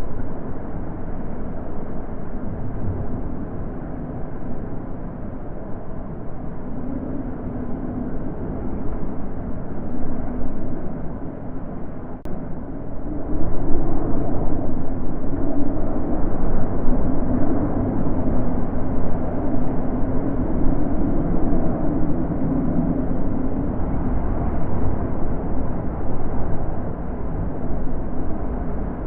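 Wind blowing in gusts: a low rushing with a wavering low tone in it, getting stronger about halfway through.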